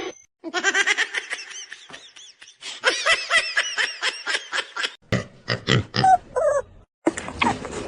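An animal's short, high-pitched calls, each rising and falling, coming several a second in quick runs that break off abruptly a few times.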